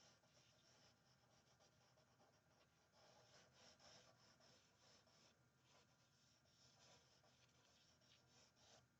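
Faint scratching of a charcoal pencil on paper, in short irregular sketching strokes.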